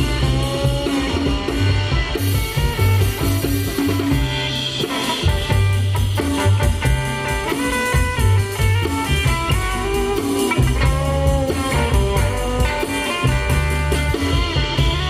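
Live blues band playing an instrumental break of a slow blues: bass and drum kit keeping a steady beat under guitar, with a lead line soloing over it and no vocals.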